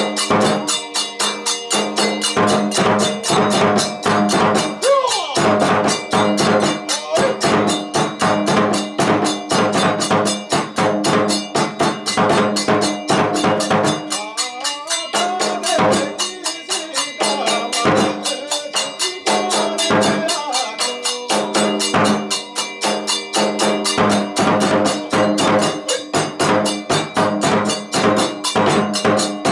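Kagura music: fast, steady drum strokes and ringing hand cymbals, with a gliding flute line over them.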